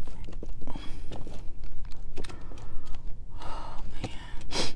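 A person chewing a mouthful of romaine lettuce wrap, with small wet mouth clicks. A short, sharp breath comes near the end and is the loudest sound.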